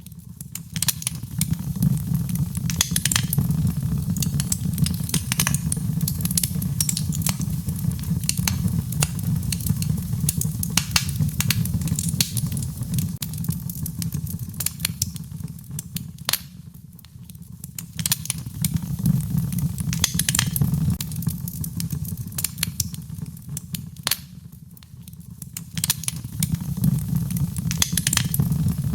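Wood fire in a fireplace crackling and popping in irregular snaps over a steady low rumble of the flames. The sound eases off briefly twice, about two-thirds of the way through and again near the end, then picks up.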